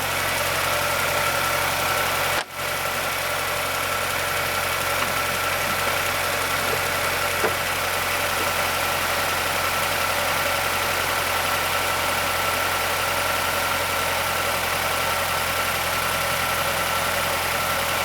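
Mazdaspeed6's turbocharged 2.3 L DISI four-cylinder idling steadily soon after a cold start, with a click from the timing chain area that is hard to hear over the engine noise. That click is the kind of VVT actuator or timing chain noise that Mazda's SSP-87 covers. The sound drops out for an instant about two and a half seconds in.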